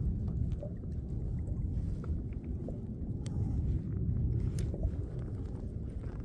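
Wind rumbling on the microphone and water lapping at a fishing kayak's hull, with a few light clicks from handling gear.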